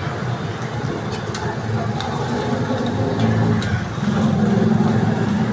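Lachha parathas frying in oil on a large flat griddle (tawa), sizzling, with a few sharp clicks of metal tongs striking the griddle as they are turned. A low, steady rumble like an engine runs underneath and swells about four seconds in.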